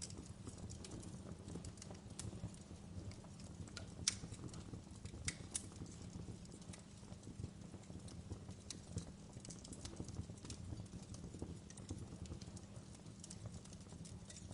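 Wood fire burning in a fireplace, with a steady low rumble of the flames and irregular crackles and pops from the burning wood. The sharpest pop comes about four seconds in.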